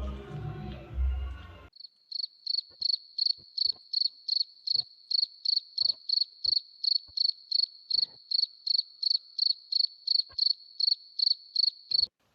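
Background music with a beat cuts off about two seconds in. A cricket chirping sound effect follows: a high, even chirp repeating about three times a second, which stops just before the end. A few faint clicks sound beneath it.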